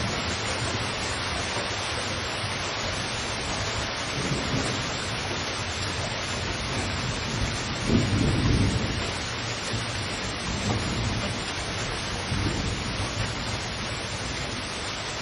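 Heavy rain falling in a steady dense hiss, with low rumbles of thunder rising and fading several times, the loudest about eight seconds in.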